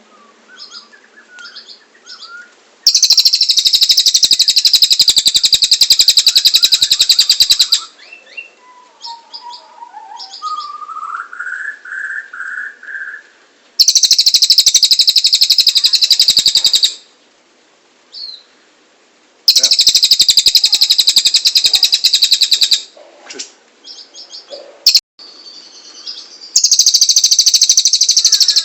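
A cililin bird singing in loud, rapid, high trills that each last several seconds, four times over. Between the trills come softer chirps and a short series of clear whistled notes.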